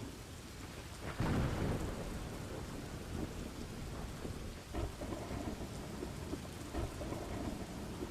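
Steady rain with thunder rumbling, loudest about a second in.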